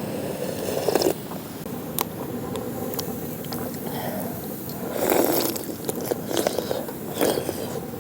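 A person eating: biting and chewing food, with a few sharp clicks in between.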